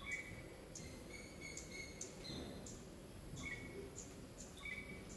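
Birds chirping faintly, with short high notes two or three times a second, over a low background hiss.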